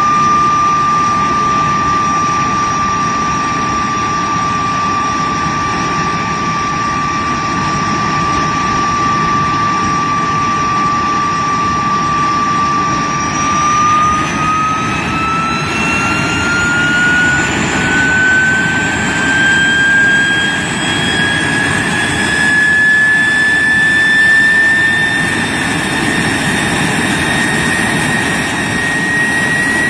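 de Havilland Vampire jet's Goblin turbojet running on the ground with a high whine. The whine holds steady for the first half, then rises slowly in pitch as the engine speeds up.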